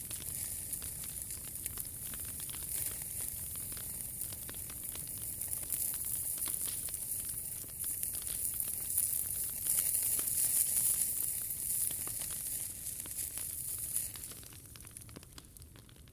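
Wood fire burning, crackling with many small pops over a steady hiss; it quietens about two seconds before the end.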